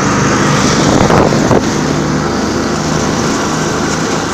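Buran snowmobile engine running steadily, with wind buffeting the microphone.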